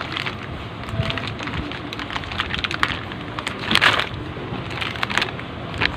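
Irregular small clicks and crinkling of packaged goods being handled, with a louder rustle about four seconds in.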